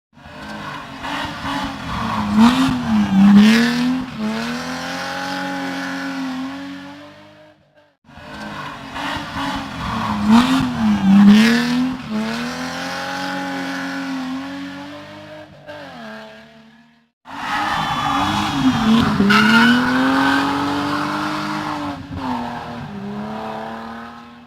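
Three hill-climb race cars go past one after another, their engines revving hard, the pitch dipping and climbing again as each car brakes, shifts and accelerates, with tyre squeal as they drift. Each pass is cut off suddenly by an edit, about every eight seconds.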